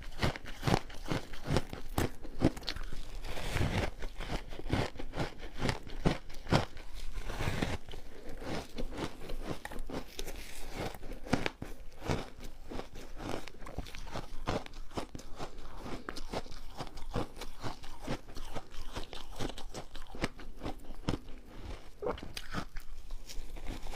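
A person biting and chewing refrozen ice: a continuous run of sharp crunches and cracks, several a second.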